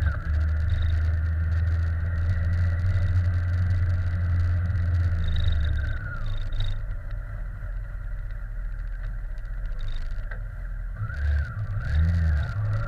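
Engine running steadily under way. Its note drops about six seconds in, then rises and falls again near the end as the revs change.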